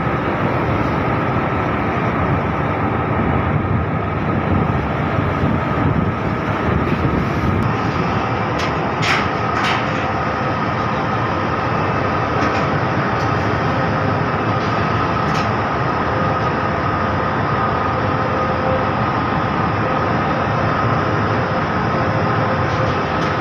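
Ship under way: a loud, steady rumble of engines and passage with a faint steady whine, broken by a few brief sharp noises about nine seconds in.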